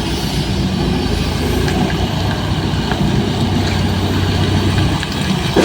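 Isuzu dump truck's diesel engine running steadily with a deep, even hum.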